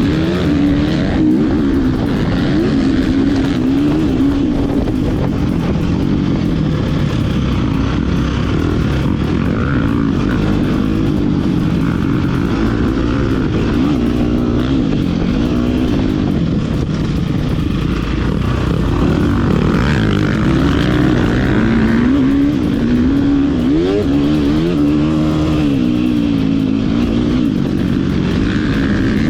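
Motocross dirt bike engine at full riding effort, its note climbing and dropping again and again as the throttle is worked.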